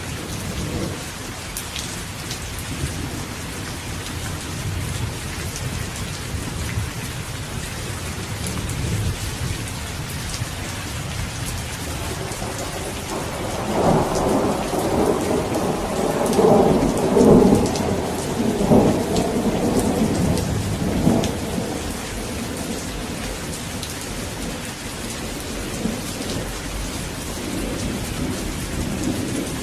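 Steady rainfall with a long rolling peal of thunder about halfway through, building and rumbling for several seconds before fading back under the rain.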